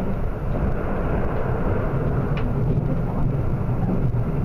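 Nanki limited express train running at speed, heard from inside the passenger car: a steady low rumble of running noise.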